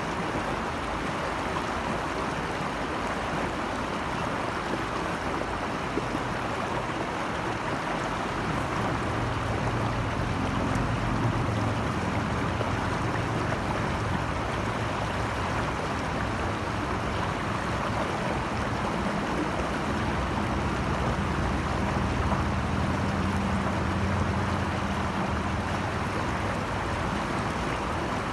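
Steady rush of flowing stream water. A low hum comes in about eight seconds in and fades near the end.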